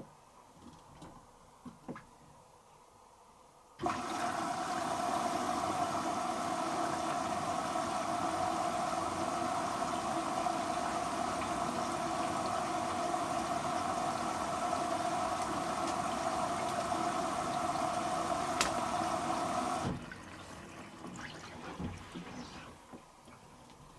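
Water inlet valve of a Hoover H-Wash & Dry 500 washer dryer filling the machine. Water rushes in steadily, starting abruptly about four seconds in and cutting off sharply some sixteen seconds later as the valve closes. A few faint knocks come from the machine before and after.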